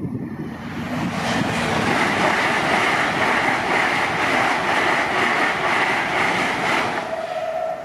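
LNER Azuma high-speed train passing at speed: a loud rush of wheel and air noise with a faint regular clatter that builds over the first second and dies away about seven seconds in. Near the end the level crossing's alarm, whose tone has gone flat, is left sounding as one steady note.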